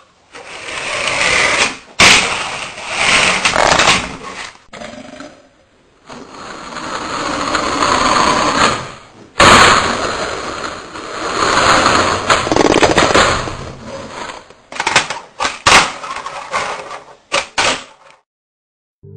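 Skateboard wheels rolling with rough noise that swells and fades, broken by sharp clacks and knocks of the board. Several short takes are cut together, and the sound stops abruptly at each cut.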